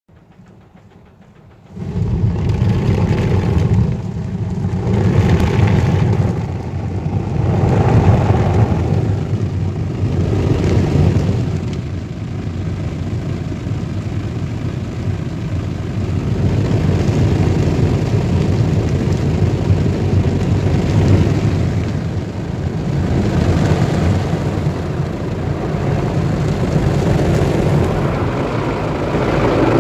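Automatic brush car wash running: a heavy steady rumble with spinning brushes swishing over the car, swelling and easing every few seconds, starting suddenly about two seconds in.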